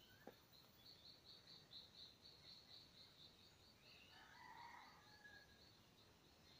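Faint dawn birdsong: a high, thin note repeated about four times a second in a long steady series that grows fainter, with a few other birds chirping about four seconds in. A soft tap sounds just after the start.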